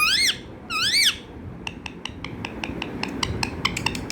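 Pet parrot giving two short high calls that rise and fall in pitch, then a quick run of sharp clicks, about six a second, from about a second and a half in.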